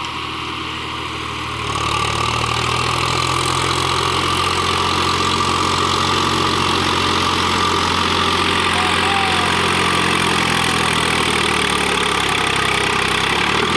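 Swaraj 735 FE tractor's three-cylinder diesel engine running steadily. It grows louder about two seconds in, then holds an even note.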